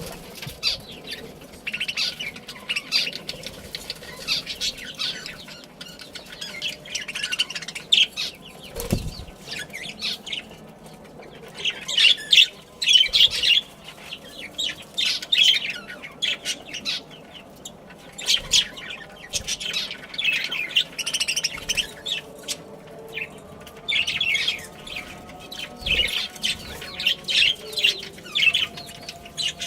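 A flock of budgerigars chirping and chattering, in quick runs of short, high chirps with brief pauses between them. There is a dull thump about nine seconds in and another near the end.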